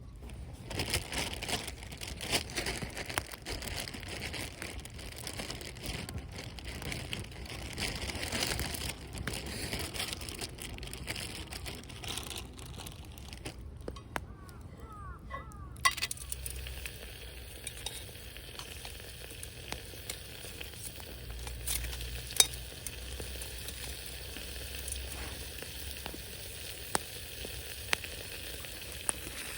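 Steady sizzling and crackling from cooking over an open wood fire, with scattered sharp pops. The sound changes abruptly about halfway through.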